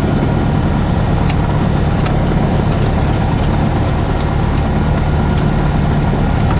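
Single-engine Cessna 172's piston engine and propeller droning steadily at an even power setting, heard from inside the cabin.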